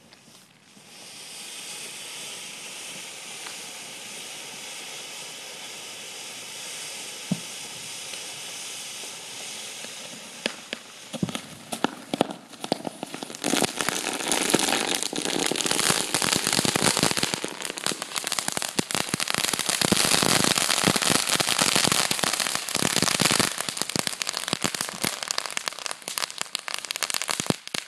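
Consumer firework going off: a steady fizzing hiss for about ten seconds, then sharp pops that build into dense, loud crackling until near the end.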